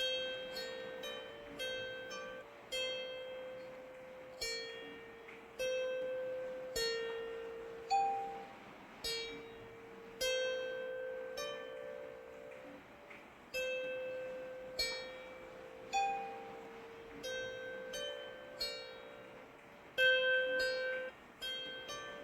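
Slow, gentle melody of plucked strings, single notes struck about once or twice a second, each ringing and fading, over a faint steady hiss of rain.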